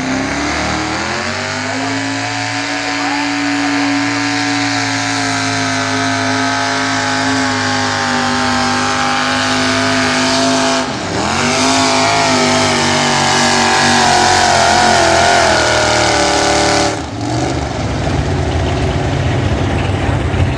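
Super stock pulling truck's engine at wide-open throttle, held at high revs while pulling the sled. Its pitch climbs at the start, dips sharply and recovers about halfway through, then drops away suddenly near the end, leaving a lower, rougher noise.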